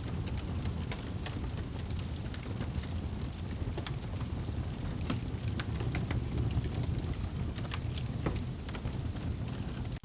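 Crackling fire with irregular sharp pops and snaps over a steady low rush of rain.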